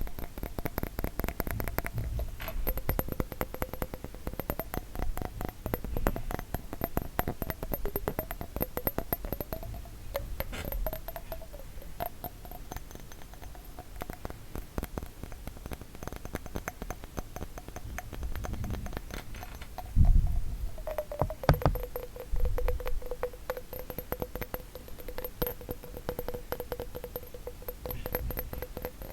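Rapid, continuous tapping on a glass bottle, with a ringing glassy tone under the taps that shifts in pitch. There are a few heavier knocks about two-thirds of the way through.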